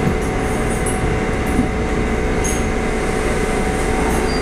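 Running sound inside an old Taiwan Railway EMU400 electric multiple unit as it rolls slowly along the platform on arrival at a station: a steady rumble of wheels and running gear with a constant hum.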